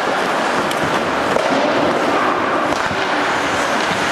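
Ice hockey play on a rink: a steady scraping haze of skates on ice, with a few sharp stick-and-puck knocks.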